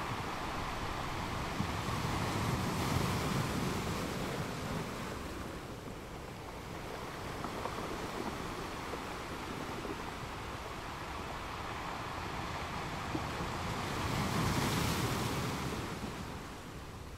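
Wind rushing over the microphone, with waves on open water, swelling in two louder gusts, one about three seconds in and one near the end.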